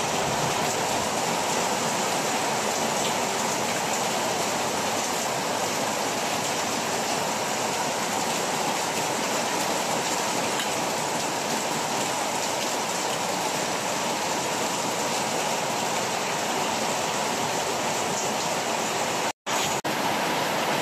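Heavy rain pouring onto a flooded paved yard: a steady, unbroken hiss of drops splashing into standing water. It breaks off briefly near the end.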